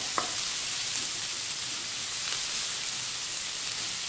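Sliced onions and green chillies sizzling in hot oil in a non-stick pan: a steady frying hiss, with a couple of sharp clicks near the start.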